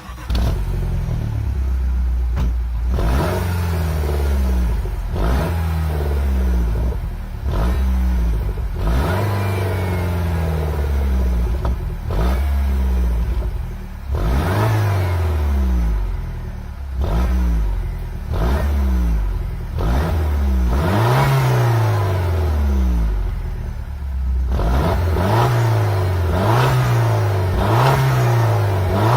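Peugeot 208 GTI's turbocharged 1.6-litre four-cylinder petrol engine revved repeatedly while standing, with about a dozen throttle blips that rise and fall back, some held a little longer. It is breathing through a newly fitted TMSR2 intake and Pipercross air filter, which gives it a little more of a burble.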